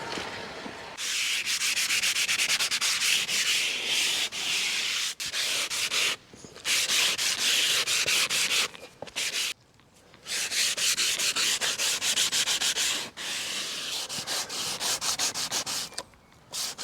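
Sandpaper (glass paper) rubbed hard along garden railway rails to clean them: rapid back-and-forth scraping strokes, stopping briefly a few times.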